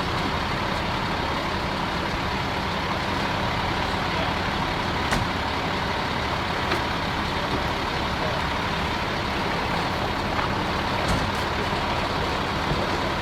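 Fire truck engine running steadily, with a faint steady whine over the noise and a couple of short clicks.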